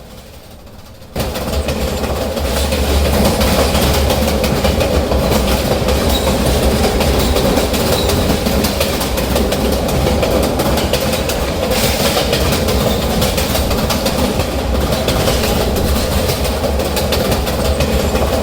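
New York City Z subway train running between stations, heard from inside the car: a steady loud rumble with a low hum and rapid wheel clatter on the rails. The noise jumps up suddenly about a second in and then holds.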